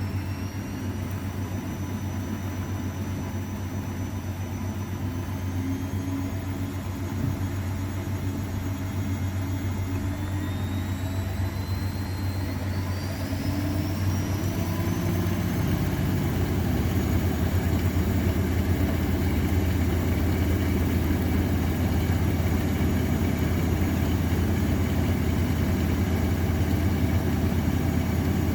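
AEG Öko-Lavamat 693 washing machine running, its drum motor speeding up: a whine climbs in pitch partway through, and the hum grows louder and settles at a higher, steady speed. This is the machine ramping up into a spin.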